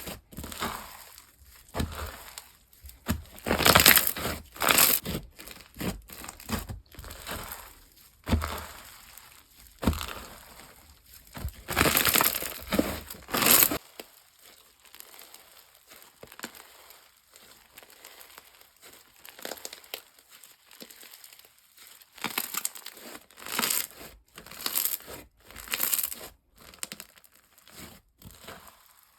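Slime being squeezed and worked by hand, giving irregular crunchy crackles and pops, louder in the first half and softer after about halfway.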